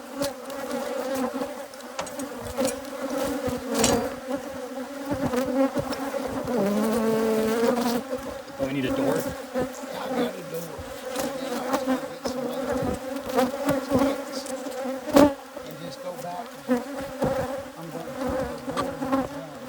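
A hybrid Africanized honeybee colony buzzing around the open hive, a steady hum, with scattered sharp knocks and taps, the loudest about fifteen seconds in.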